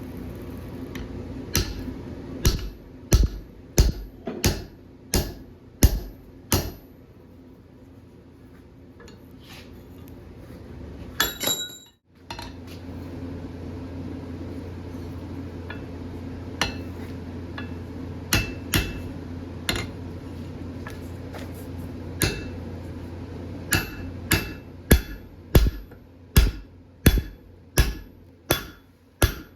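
Hammer blows forging a bar of 1-inch round alloy steel on an anvil, each strike ringing. A run of about eight strikes comes first, then a pause over a steady hum with a few scattered blows, and near the end a faster run of strikes.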